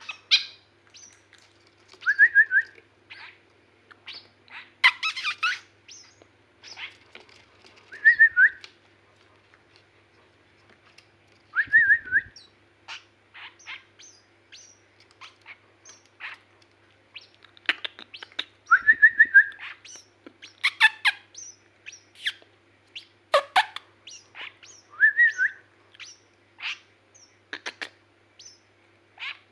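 White-breasted woodswallow calling: short bursts of quick notes repeated every few seconds, with scattered sharp chirps in between.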